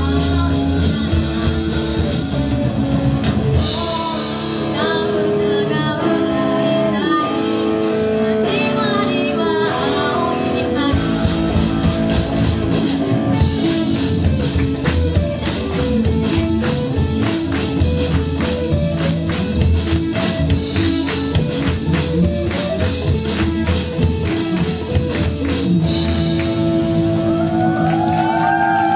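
A rock band playing live with a singer, guitar, bass and drums. The bass and drums drop back from about four seconds in, and the full band comes back in hard around eleven seconds.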